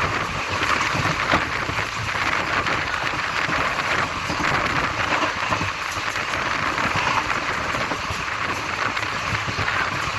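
Steady running noise of a moving passenger train: an even, unbroken hiss with a light rattle of the coach, with no change in pace.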